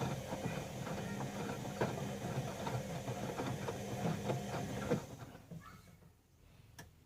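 Bauknecht Dynamic WA 1460 Sports washing machine running its drum, the motor humming with irregular knocks from the turning load. About five seconds in it winds down and stops, with a single sharp click near the end.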